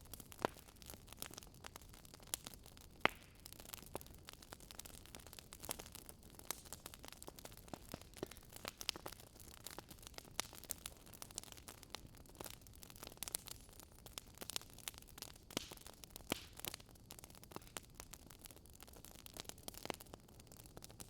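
Wood fire crackling, with irregular sharp pops and snaps several times a second over a faint steady hiss.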